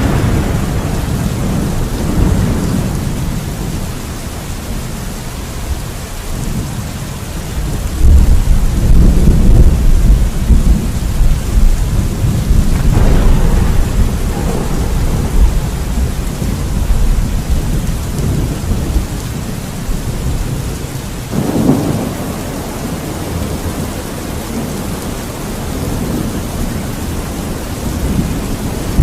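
Steady rain with rolling thunder. A loud, deep rumble sets in about a third of the way through and rolls on for several seconds, and sharper thunderclaps break in near the middle and again about three quarters through.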